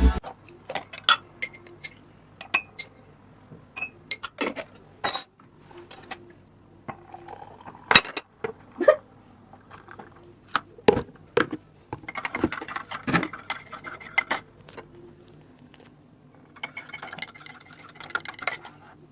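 Scattered light clicks and clinks of small hard objects being handled and set down, with a couple of short bursts of clatter about twelve and seventeen seconds in.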